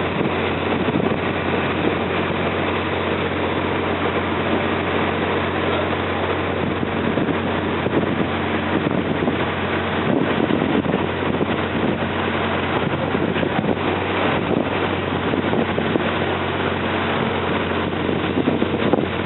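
A river slow boat's engine running steadily at cruising speed, a constant low hum, with rushing wind on the microphone and water noise.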